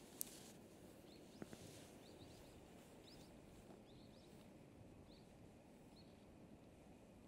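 Near silence, with faint, short, high bird chirps repeating from about a second and a half in to about six seconds. A single sharp click sounds just after the start.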